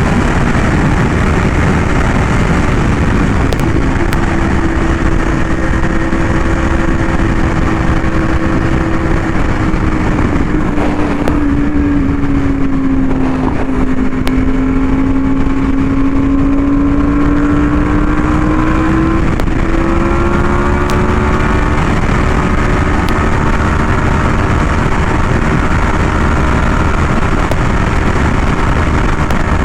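Yamaha R1M's crossplane inline-four running through an SC Project exhaust at a steady cruise. Its pitch sags slowly to a low around the middle and then climbs back over several seconds as the throttle is eased off and opened again.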